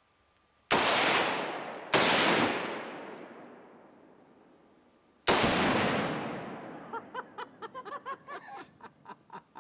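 Three loud bangs, about a second and then three seconds apart, each rolling away in a long echo: rifle fire on a Tannerite and gasoline target, setting off the exploding target.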